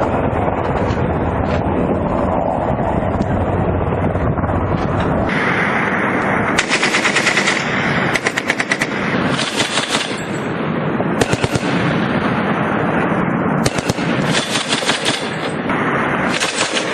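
A steady low rumble, then from about five seconds in, machine-gun fire in several short rapid bursts, each about half a second to a second long.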